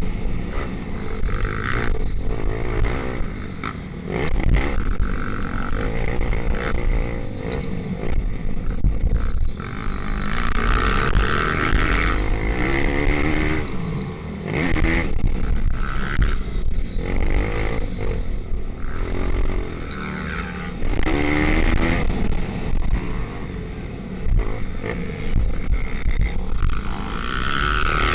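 Racing pit bike engines revving hard and easing off again and again, the pitch climbing and dropping every few seconds.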